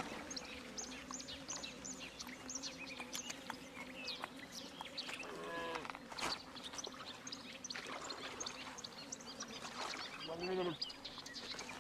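Lakeshore ambience of many small birds chirping over a steady low hum. Two louder calls stand out, one about halfway through and one near the end that falls in pitch.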